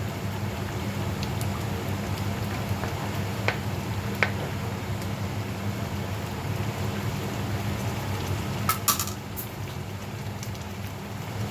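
Tomato-sauce chicken stew simmering in a pot on the stove: a steady, crackly bubbling over a low hum, with a few sharp clicks and a brief cluster of louder clicks about three-quarters of the way through.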